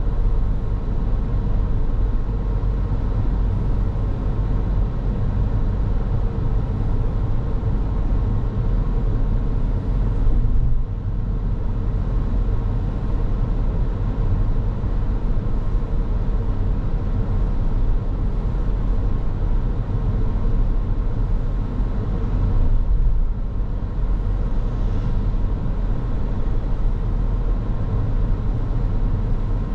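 Car driving along the road: a steady rumble of tyre and engine noise with a faint steady hum. The noise eases off briefly twice, about a third and three-quarters of the way through.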